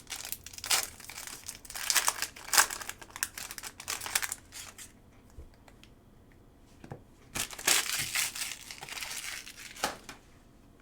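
Foil trading-card pack wrapper crinkling and tearing as a pack is ripped open, in two spells of rustling with a short lull between.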